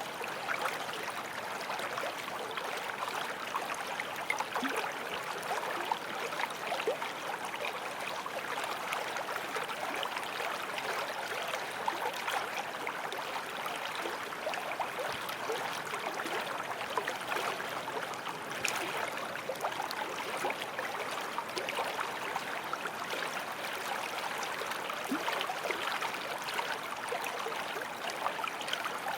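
Forest stream flowing over rocks: a steady rush of water with many small splashes and gurgles.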